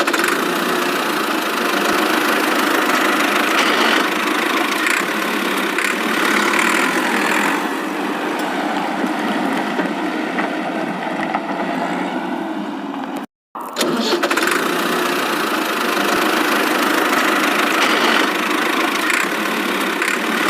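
Steady engine running noise, cut off by a brief silence about two-thirds of the way through, then running again.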